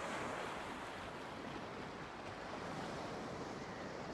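Steady wash of sea surf, an even hiss of waves without distinct breakers.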